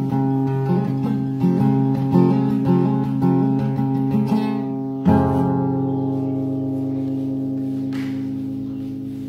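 Acoustic guitar playing out the end of a song: picked chord notes, then a final strummed chord about five seconds in that rings out and slowly fades.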